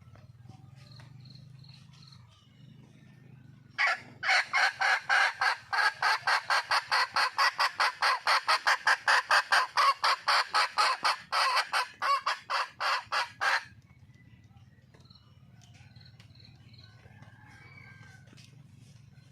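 Junglefowl hen calling: a fast, even run of about forty loud notes at some four a second, starting about four seconds in and lasting about ten seconds. It is the hen's call for a mate.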